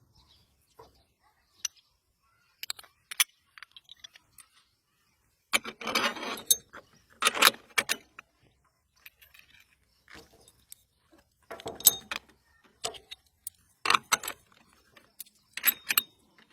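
Irregular metallic clinks and clicks of metal tools and parts being handled during scooter repair work. A few longer rattles come about six, seven and a half, and twelve seconds in.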